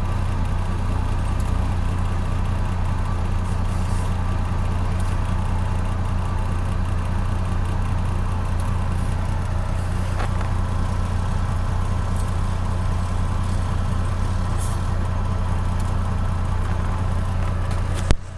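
Diesel engine of a loaded 10-axle logging truck running steadily with a low, even hum, with a few faint clicks; the sound cuts off suddenly near the end.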